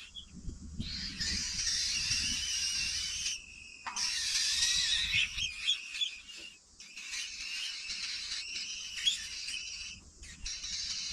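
Outdoor animal sounds: a dense, steady high-pitched chorus with short bird-like calls over it, cutting off abruptly a few times.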